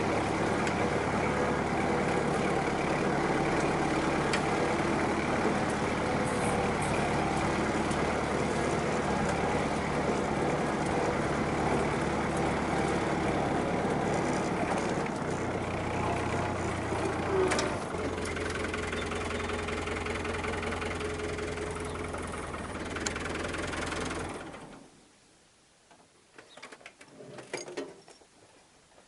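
Farm tractor's diesel engine running steadily, its pitch shifting a little about halfway through, then the sound stops about 24 seconds in, leaving only a few faint knocks.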